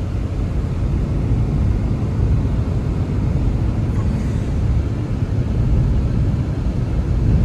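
Steady low rumble of blizzard wind, with no distinct events.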